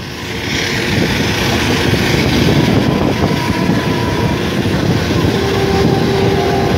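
Steam-hauled passenger train running at speed, heard from an open coach window: a steady rushing rumble of wheels on rail and passing air that swells louder in the first second.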